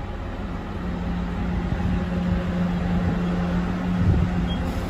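DSB IC3 (MF) diesel multiple unit rolling slowly into a platform: a steady engine hum over the low rumble of its wheels on the rails, with a few low knocks near the end.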